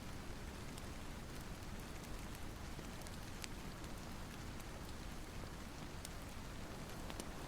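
Steady rain ambience falling, with scattered faint sharp clicks and pops throughout.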